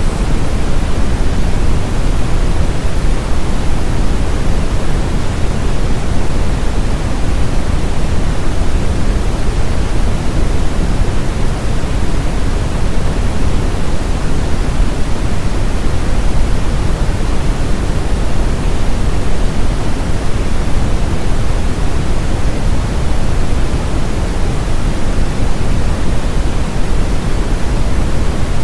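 Steady brown noise: an even, deep rushing hiss with most of its energy in the low end, used to mask tinnitus.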